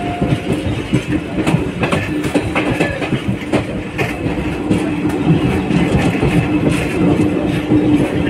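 Passenger train running at speed, heard from aboard a coach of the 14217 Unchahar Express: a steady rumble with a hum under it, and wheels clacking irregularly over rail joints.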